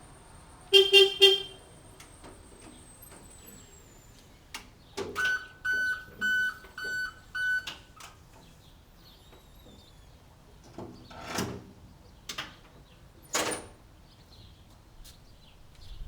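Electric utility cart's horn sounding in three quick toots, then a higher electronic beep repeated five times, followed by a few clunks.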